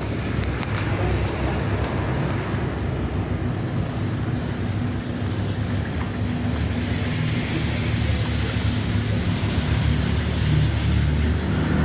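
Pressure washer running with the hiss of its water spray over a steady motor hum; the spray hiss grows stronger about two-thirds of the way through.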